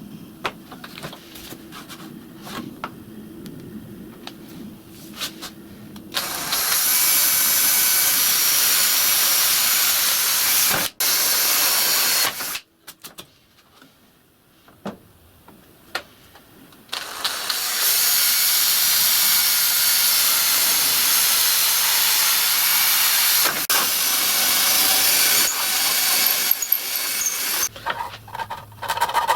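A power tool running in two long, steady spells as it cuts an arc-shaped slot in a plastic table-saw blade guard, with quieter handling sounds before and between.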